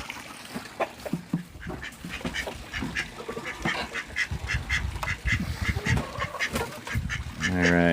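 Backyard chickens and quails calling in their coop: a steady stream of short, rapid clucking and chattering notes. A louder, buzzy sound comes near the end.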